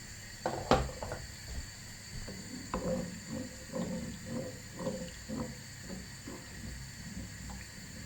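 A spoon stirring a thickening sauce in a pot, going round in a steady rhythm of about two strokes a second, after a sharp knock near the start as a utensil or bottle is set down.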